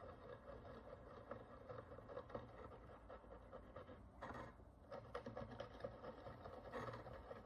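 Faint, fine scraping and scratching of a small hand tool working the crust of dirt and oxidation off a bronze Roman coin, with a slightly louder stroke about four seconds in and another near the end.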